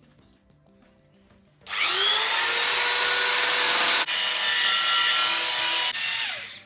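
A rotary power tool spins up about two seconds in, its whine rising, and sands paint out of a steel subframe's bush bores with a steady high whine and rubbing grind. It dips briefly partway through and winds down at the end with a falling whine.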